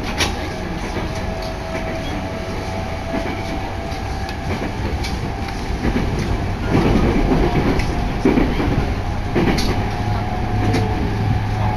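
Running noise heard from inside a moving electric commuter train car: a steady rumble with a few sharp wheel clicks over rail joints. It grows louder about seven seconds in.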